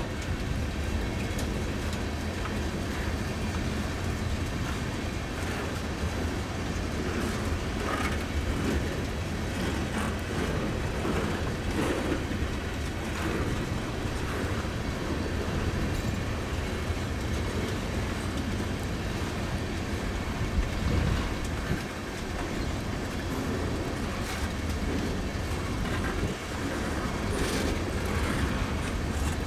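Freight train of tank cars rolling slowly past, a steady rumble with the wheels clicking over the rail joints.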